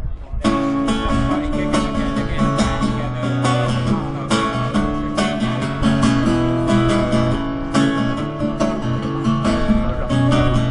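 Acoustic guitar strummed in a steady rhythm with no vocals: an instrumental break between sung verses of a live song.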